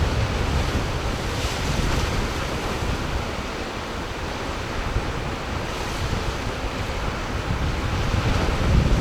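Steady wash of sea surf and wind, with wind buffeting the microphone as a low rumble that swells a little near the end.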